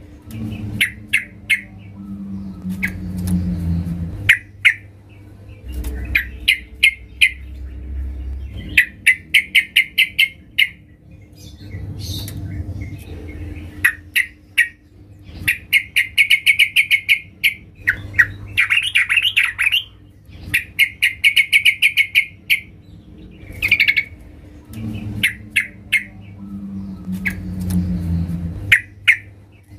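Yellow-vented bulbul (trucukan) calls billed as a female calling to males: short bursts of rapid, chattering notes, repeated every second or two.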